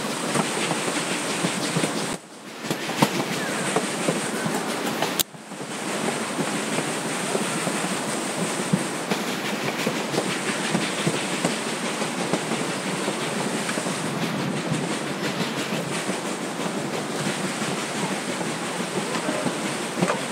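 Narrow-gauge train running along the track, a steady rumble and wheel clatter on the rails. The sound drops away abruptly twice, about two and five seconds in, and recovers within a second.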